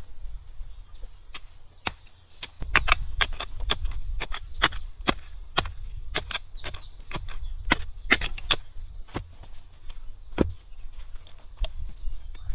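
Rapid, irregular sharp blows of tools striking wood, about two to four a second, over a low rumble.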